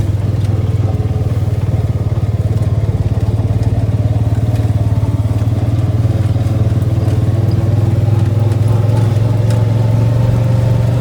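ATV engine running steadily, a loud even drone that holds the same pitch throughout.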